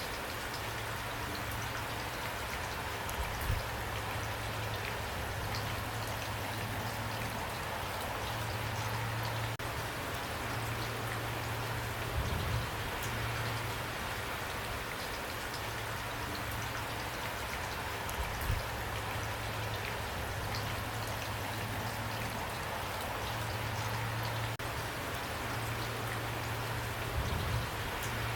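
Steady rain falling, an even hiss with single drops standing out. A low hum fades in and out beneath it, and a few brief low thumps stand out, about four times.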